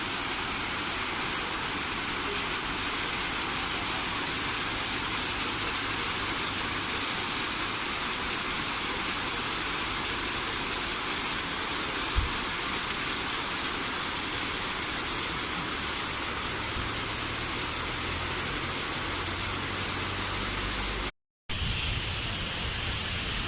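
Steady rush of a waterfall, an even wash of falling water with no let-up. There is a single short knock about twelve seconds in, and the sound drops out to silence for a split second near the end.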